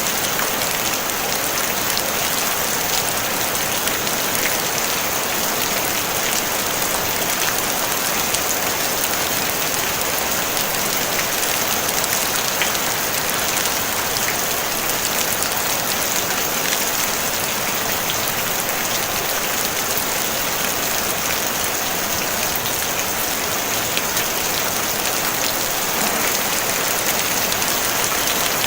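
Steady, gentle rain falling on a tin roof: a dense, even hiss with scattered sharper drop ticks.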